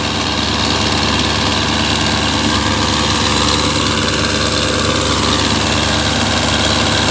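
Tractor's diesel engine running steadily at idle.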